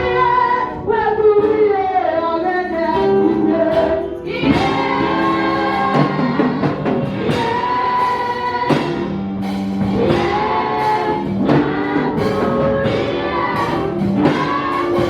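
Gospel music with a choir singing over a band accompaniment, at a steady loud level.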